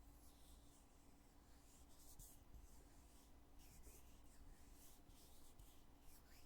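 Faint scraping and light clicks of a heavy foundation container's lid being opened and closed, in several short strokes over a faint steady hum.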